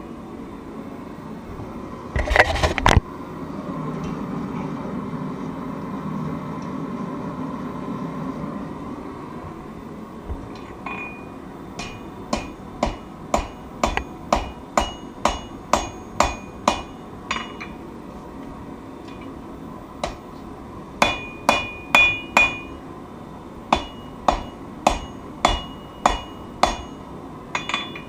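Hand hammer striking hot steel on an anvil while a semi-integral knife is forged: two runs of blows, about two a second, many with a high metallic ring, separated by a short pause. Before them comes a brief loud noisy burst and a few seconds of steady rushing noise.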